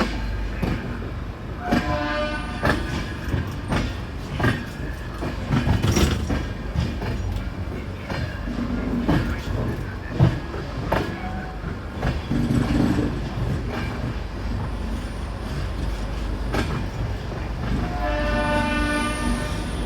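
Passenger express train running on the rails: a steady low rumble with scattered clicks of the wheels over rail joints. A train horn sounds briefly about two seconds in, and again for a second or so near the end.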